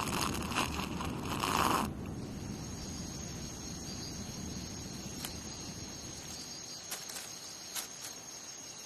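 A rustling noise for about the first two seconds, then a quieter, steady high chirring like insects in outdoor ambience, with a few faint clicks.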